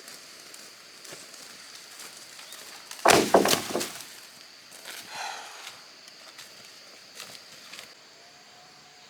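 A quick cluster of loud knocks and clatter lasting about a second, about three seconds in, with a smaller knock two seconds later, over a steady high insect buzz that stops near the end.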